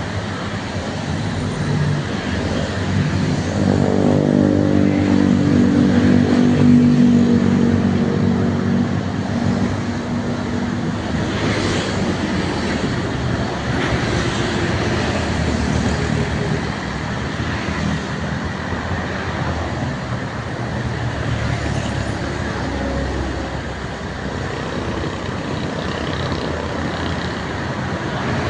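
Road traffic passing steadily. From about 4 to 10 seconds in, a heavy vehicle's engine goes by, loudest in the middle, its pitch dropping slightly as it passes.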